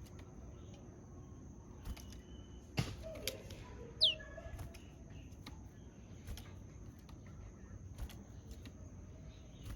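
Japanese tit calling: one loud, sharply down-slurred whistle about four seconds in, among a few faint short notes and scattered clicks.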